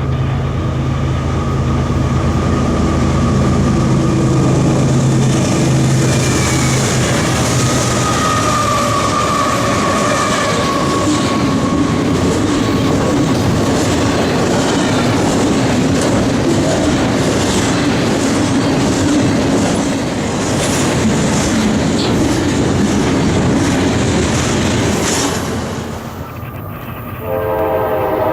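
Train passing close by: a diesel locomotive's engine drone at first, then railcars rolling past with steady wheel clatter and a brief high wheel squeal. Near the end the rolling noise drops away and a train horn starts sounding.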